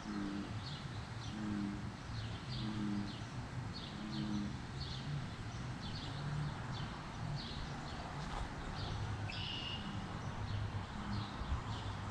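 A bird chirping over and over, short high chirps about two a second, with one longer, steadier call about nine seconds in, over a low uneven hum.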